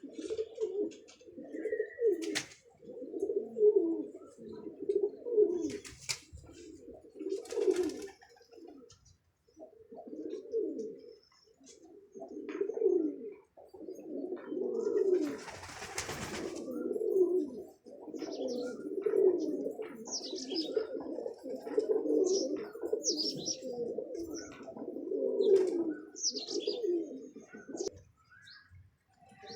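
Domestic pigeons cooing over and over, in low warbling calls. High bird chirps come in through the second half, with a few sharp clicks early on and a brief rustle about midway.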